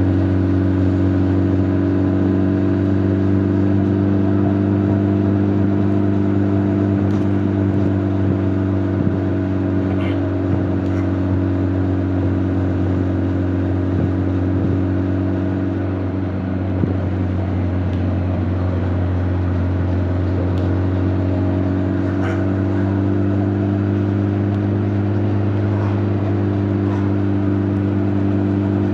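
Honda CB1300 Super Bol d'Or's inline-four engine and exhaust running at a steady cruise, its note holding nearly constant pitch, easing off briefly about halfway through. Picked up from a mic in the rider's back protector pocket, with little wind noise.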